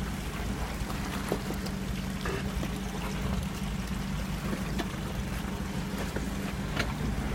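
Off-road vehicle engine running steadily at low revs, a low even hum, over the sound of creek water trickling and splashing, with scattered small clicks and knocks throughout.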